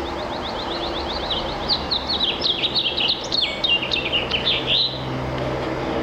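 House finch singing its long, complex warbling song of fast, varied notes, building in loudness and ending about five seconds in, over a steady low background hum.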